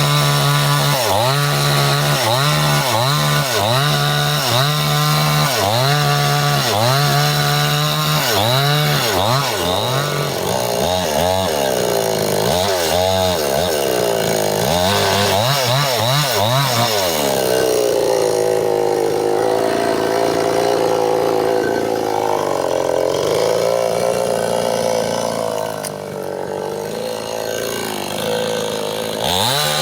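Stihl two-stroke chainsaw revving up and down in quick repeated blips, about one and a half a second, for roughly the first half. It is then held at high revs with its pitch wavering, as when working in a cut, and starts revving up and down again near the end.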